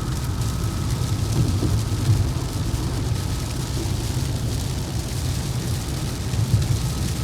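Steady low rumble of a vehicle driving along the road, heard from inside, with an even hiss of tyre and road noise over it.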